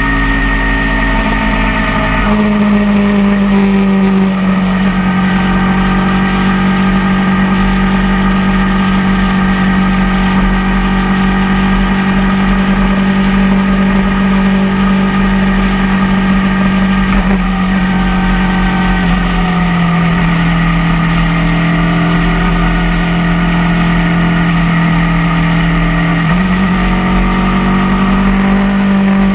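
Motorcycle engine running at a steady cruise, its note dropping a step about two seconds in and rising again near the end, with wind rumble on the microphone.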